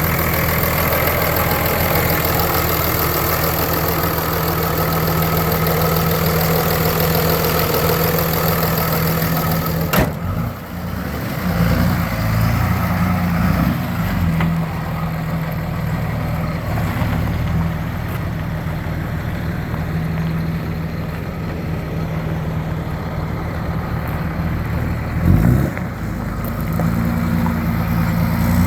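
2003 Dodge Ram 3500 pickup's engine idling steadily. About a third of the way in there is a sharp click, after which the engine note changes and wavers for a few seconds before settling back to a steady idle.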